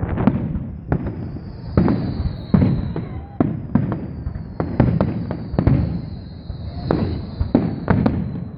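Fireworks display: a rapid series of bangs and crackles, roughly one or two a second, with a high whistling tone that falls slowly in pitch from about a second in.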